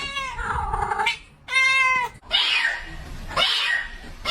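A domestic cat yowling in a run of drawn-out calls, about four in a row, the first falling in pitch and the later ones harsher and raspier.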